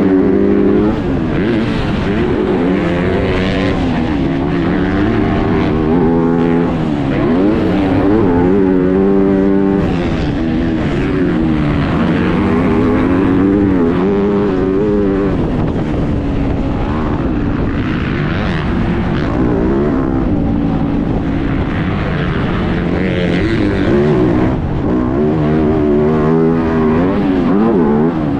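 Motocross bike engine, heard onboard, revving up and falling off again and again with the throttle and gear changes as the rider laps the track.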